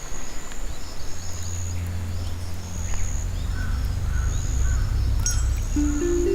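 Wildlife ambience of short, repeated bird calls and a high, on-and-off insect-like trill over a low music drone that swells from about a second in. Stepped musical notes rise near the end.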